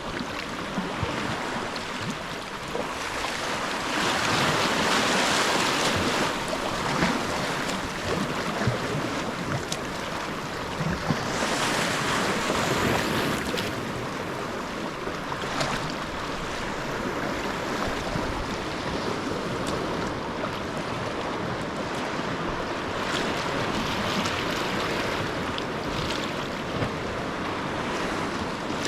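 Sea water washing and splashing around a sea kayak, with wind buffeting the microphone; the wash swells louder for a few seconds about four seconds in and again about eleven seconds in.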